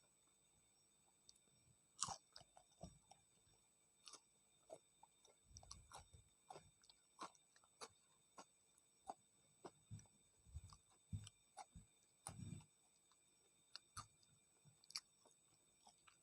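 Close-miked, quiet chewing of fried battered tempeh (tempe mendoan): an irregular run of short mouth clicks and smacks with a few longer low chewing sounds, the loudest click about two seconds in.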